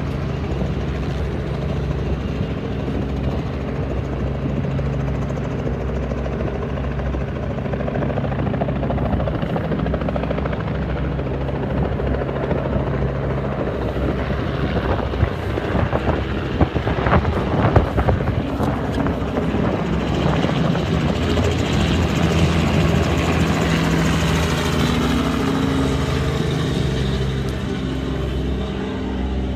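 An engine running with a steady low drone, with rougher noisy bursts for a few seconds around the middle.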